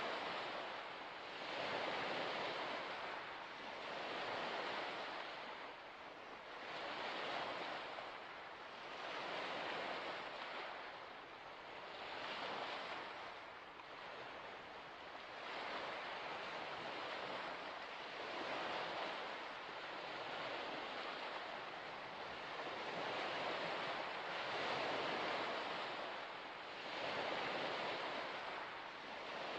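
Waves washing onto a shore: a steady rush of water that swells and eases every two to three seconds.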